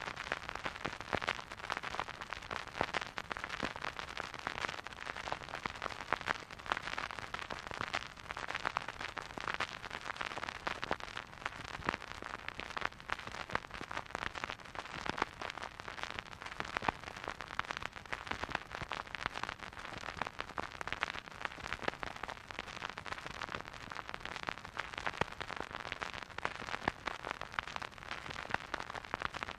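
Record player's vinyl surface noise: a soft hiss with a dense, continuous crackle of small clicks and pops.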